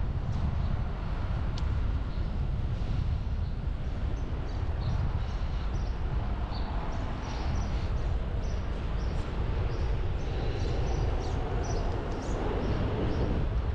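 Steady low rumble of wind and street traffic heard from a moving bicycle, with a scatter of short high chirps from about a third of the way in.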